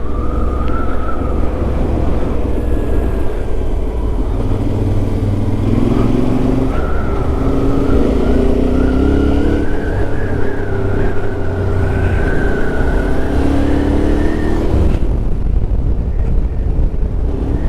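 Yamaha Ténéré 700's parallel-twin engine running while riding, its note climbing and falling a few times with the throttle, under heavy wind buffeting on the microphone.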